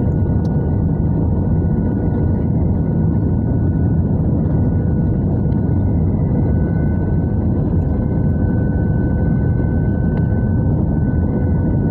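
Airbus A320 cabin noise in flight: a steady, loud rush of airflow and jet engine drone, with a few faint steady whining tones above it.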